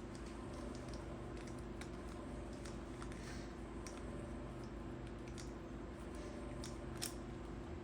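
Scattered small clicks and ticks of hands and a screwdriver working the housing screws of a heavy-duty metal extension-cord plug, with one sharper click about seven seconds in, over a steady low hum.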